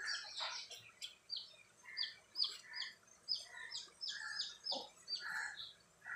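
A bird chirping over and over in short high notes, about two or three a second, with one faint knock about three-quarters of the way through.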